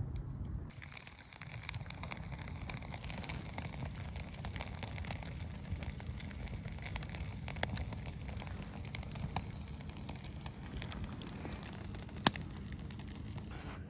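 Wood campfire crackling steadily, with a few sharp pops standing out from it.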